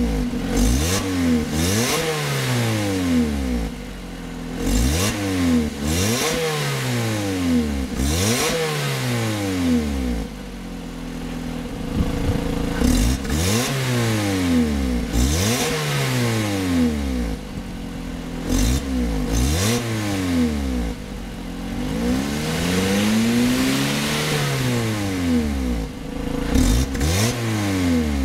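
2011 Lotus Elise SC's supercharged 1.8-litre four-cylinder engine being revved repeatedly while parked, heard from behind at the exhaust. The engine speed rises and falls back every couple of seconds, with one longer, slower rev about three-quarters of the way through.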